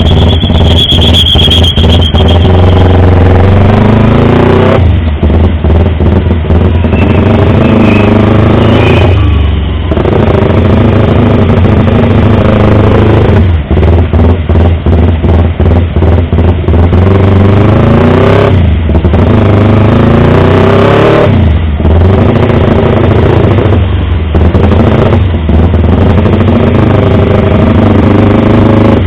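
Yamaha R25 motorcycle's parallel-twin engine, loud, revved repeatedly: its pitch climbs, then drops sharply about every four or five seconds. A brief high squeal sounds about a second in.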